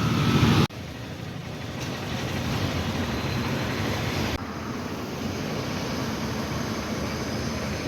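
Vehicle on the move: a steady engine hum under road and wind noise. It drops suddenly about a second in and shifts again about four seconds in.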